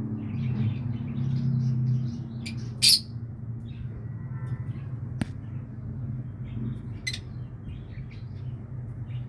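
Birds chirping in short, scattered calls, with one loud sharp call about three seconds in, over a steady low hum.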